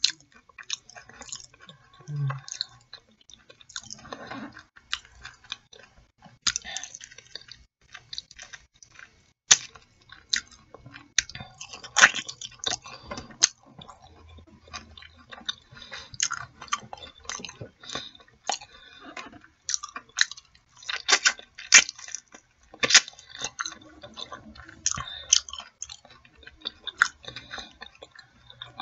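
A person biting and chewing a fried chicken wing coated in mumbo sauce, with many irregular sharp clicks and mouth noises.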